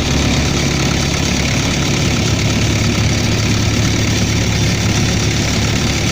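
Refrigeration unit's diesel engine on a reefer trailer running steadily, with a knock in it that the owner has just noticed; the unit shows no error codes.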